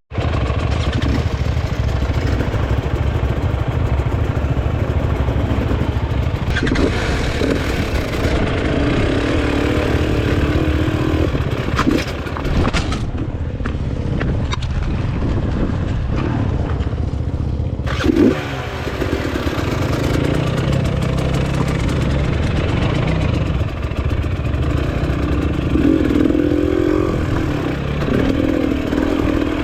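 Enduro motorcycle engine running and revving up and down as it is ridden over rough, rocky ground, with a few sharp knocks.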